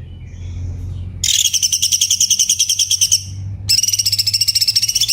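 Cucak cungkok song: rapid runs of fast repeated high notes, the first starting about a second in and lasting about two seconds, the second starting near the end, over a low steady hum.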